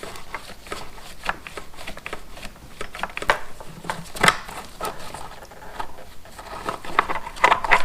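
Irregular small clicks, taps and rustling of hands working an electrical connector and wiring through a motorcycle frame, with sharper knocks about four seconds in and near the end.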